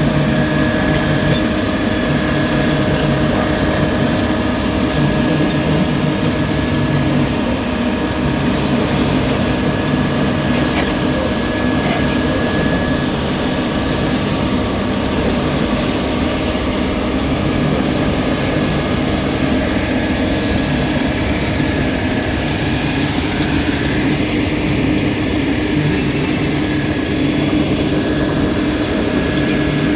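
Heavy diesel road-paving machinery running steadily, a constant engine drone with a steady hum at an unchanging pitch.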